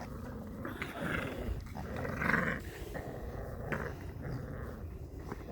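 Young puppies making small vocal noises, loudest a little past two seconds in.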